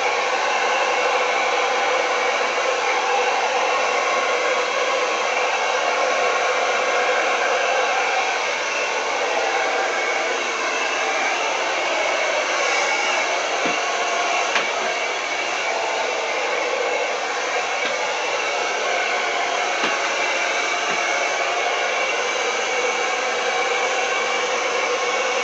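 Blow dryer running steadily, its airflow blowing wet acrylic paint across a canvas in a Dutch pour, with a few faint ticks near the middle.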